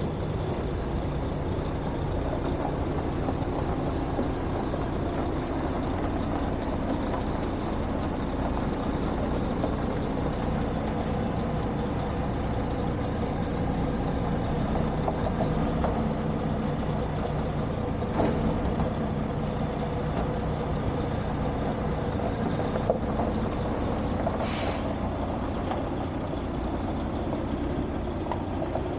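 An engine idling steadily with an even, unchanging drone, typical of a truck left running. A short hiss sounds about three-quarters of the way through.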